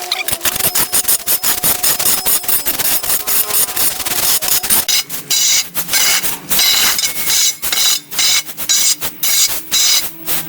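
Rapid, irregular clattering and snapping of tools cutting through overgrown brush and wood, with a faint steady machine tone underneath.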